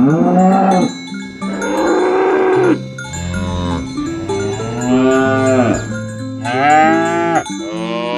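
Cows mooing over and over, about six long moos one after another with short gaps, rising and falling in pitch, over light background music of glockenspiel-like notes.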